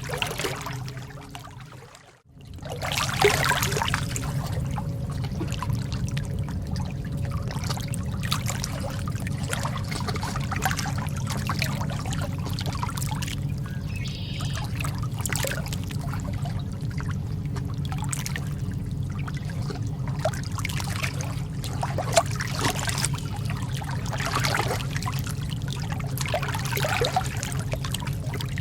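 Calm lake water lapping and trickling in small splashes over a steady low rumble. It fades out briefly about two seconds in, then comes back.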